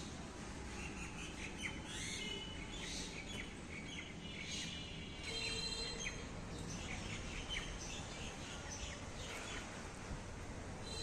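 Small birds chirping and calling outdoors, with many short repeated chirps and a harsher, buzzier call about five seconds in, over a steady low background noise.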